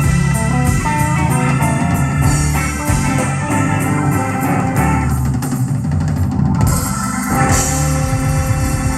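Blues band playing an instrumental passage live: guitar over a drum kit.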